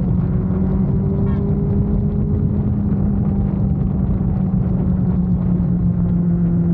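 Motorcycle engine running at a steady cruising speed, giving a loud, even drone with an unchanging pitch.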